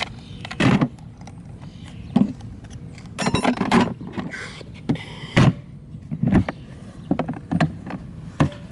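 Irregular knocks and clanks of plumbing pipe and fittings being handled, some in quick clusters about three to four seconds in.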